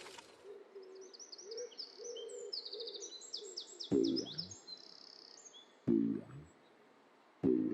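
Birds twittering in quick, high, falling chirps over a low wavering hoot-like tone. From about four seconds in come three short, low, pitched sounds about a second and a half apart.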